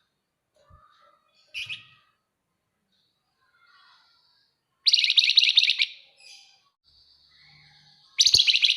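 Javan fulvetta (flamboyan) giving rapid, dense chattering trills: a short burst near 2 s in, a loud trill of about a second near 5 s, and another starting near the end, with a faint thin whistle between them.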